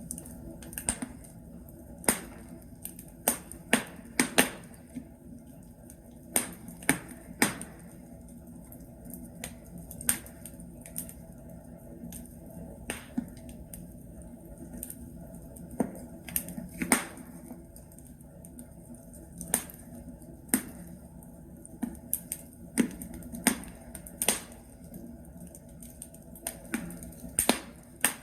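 Logs burning in a fireplace, crackling with irregular sharp pops, some single and some in quick clusters, over a steady low background of the fire.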